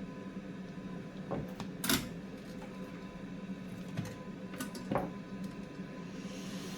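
Scattered light clicks and taps of small hand tools during soldering work, about six in all, the loudest about two seconds in. A steady hum from bench equipment runs underneath, and a higher hiss comes up near the end.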